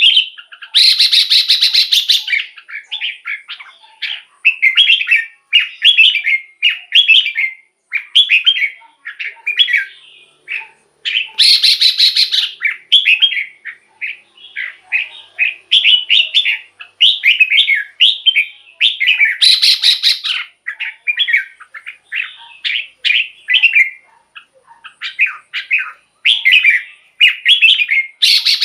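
Red-whiskered bulbul singing a rapid string of short, bright, bouncing phrases, one after another. About every eight to ten seconds a harsher, hissier burst cuts in.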